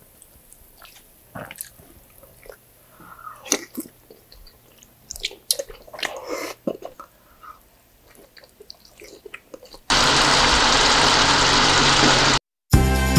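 Close-up mukbang eating sounds: wet chewing, lip smacks and bites of saucy pork belly adobo eaten by hand, in scattered bursts. About ten seconds in, a loud steady hiss takes over, broken off briefly before music begins near the end.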